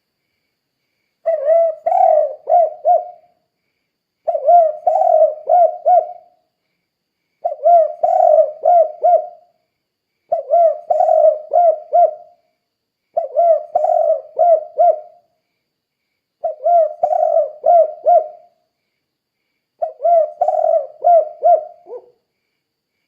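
Spotted dove (tekukur) singing its 'kuk 2' cooing song: seven phrases about every three seconds, each a longer coo followed by a quick run of shorter coos.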